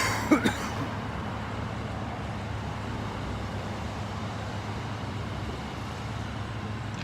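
Steady street traffic noise with a constant low engine hum, and a brief higher sound right at the start.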